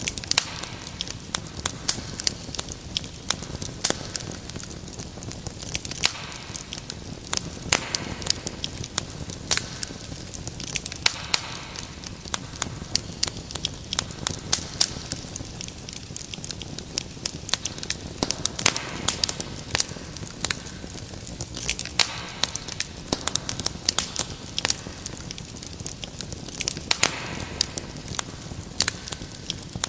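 Wood fire crackling in a fireplace: a dense, irregular run of sharp pops and snaps over an even background of burning.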